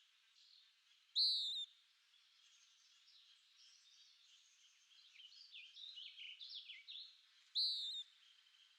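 Birdsong: a loud, short, slightly rising call heard twice, about six seconds apart, with a quicker run of falling notes between them, over a faint steady chorus of other birds.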